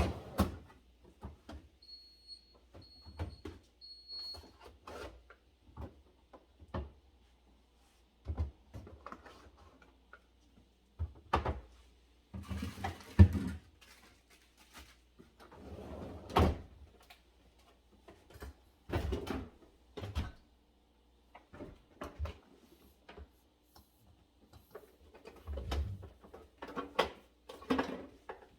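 Irregular knocks, clunks and slides of containers, shelves and drawers being handled in a refrigerator. Three short high beeps come about two to four seconds in.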